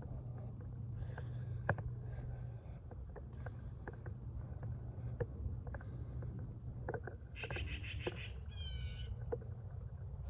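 Birds chirping in short calls, the loudest a pair about three-quarters of the way through, over a low steady rumble and scattered light clicks.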